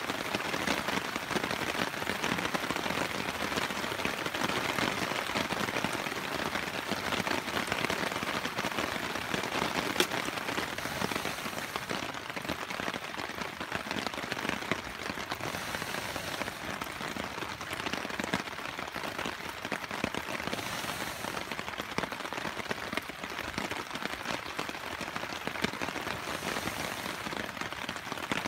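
Steady rain falling, a dense even haze of fine drop ticks, with one sharper tick about ten seconds in.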